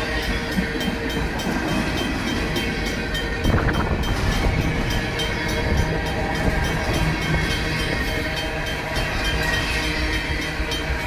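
Freight cars of a long Union Pacific mixed freight rolling through a grade crossing: centerbeam flatcars, then a tank car, with the wheels clattering over the rails and a brief louder clatter about three and a half seconds in. A RACO mechanical crossing bell rings steadily over the train noise.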